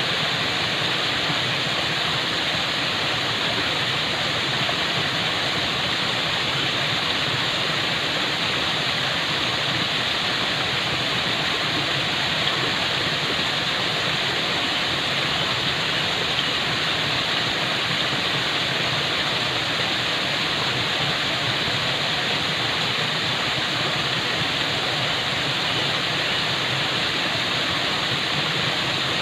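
Falling water: a steady, unbroken rush of a waterfall.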